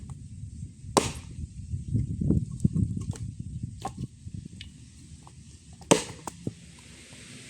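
Two sharp knocks, about a second in and again near six seconds, with smaller clicks and a low rustling or handling noise between them.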